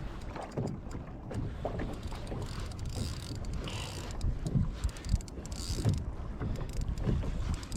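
Wind buffeting the microphone over irregular soft slaps of small waves against a kayak's hull.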